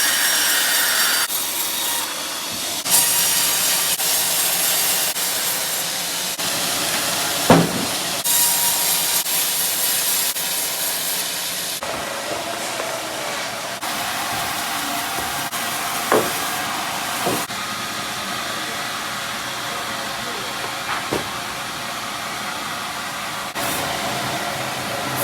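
Sawmill bandsaw cutting through a teak log: a steady rushing hiss, with a few sharp knocks scattered through.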